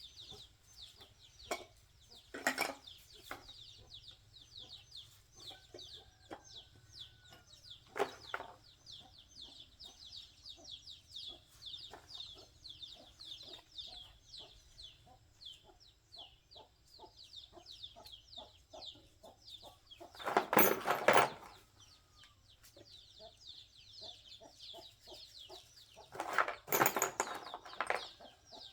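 Chickens in the background: a continuous high chorus of chicks peeping, with hens clucking. A few loud clattering noises break in, two of them lasting over a second in the second half.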